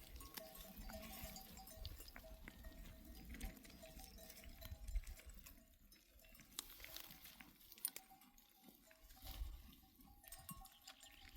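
Faint sounds of a grazing flock of sheep and goats, with a quiet tone pulsing a few times a second and scattered light knocks.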